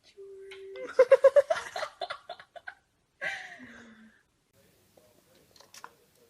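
A person laughing in a quick run of rising laughs, after a short hum, followed by a brief falling voice sound.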